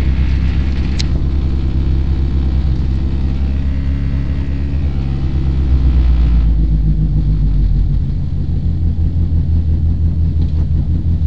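Neon's four-cylinder engine heard from inside the cabin, held at a high idle of around 2,000 rpm as the car rolls to a stop with road noise, and a single sharp click about a second in. The road noise ends about six and a half seconds in, and shortly after the engine drops to a lower, pulsing idle. Its refusal to come down to normal idle until the car is completely stopped is the fault the owner is puzzled by.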